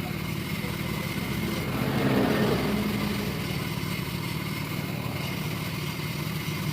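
Motorcycle engine running steadily, with a brief louder swell about two seconds in.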